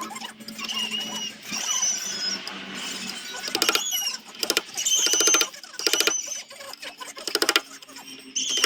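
Sanding a zelkova root piece: a run of short rasping strokes about every half second to a second, with high thin squeaks of the abrasive against the wood between them.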